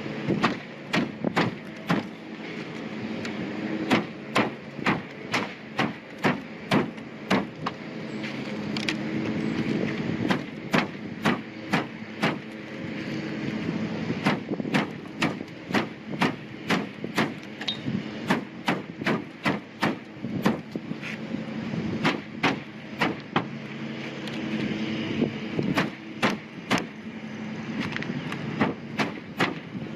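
Hand tool chipping and knocking old, cracked caulking off a tin roof: a long series of sharp knocks in quick runs with short pauses, over a steady low hum.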